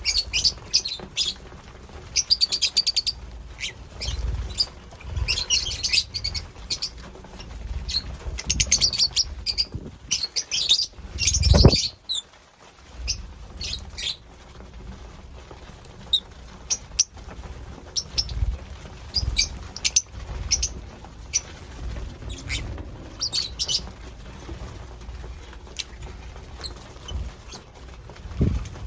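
Pet lovebirds chirping in quick, high, repeated bursts, with low thumps and rustling in between, the loudest thump about twelve seconds in.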